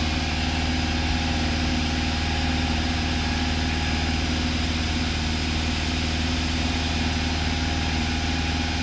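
Cessna 172's four-cylinder piston engine idling steadily on the ground, heard from inside the cabin.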